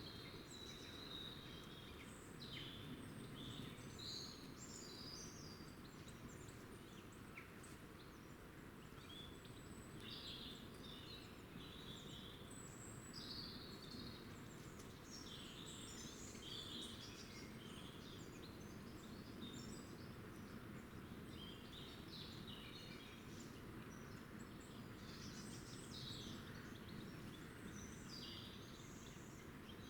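Small songbirds chirping and twittering, short faint calls scattered throughout, over a steady low background hiss.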